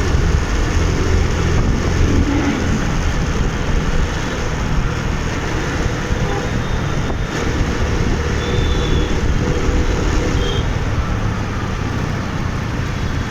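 Road traffic and motorbike engine noise heard while riding through city streets: a steady, loud engine hum with road and traffic rumble, and two short high-pitched beeps in the second half.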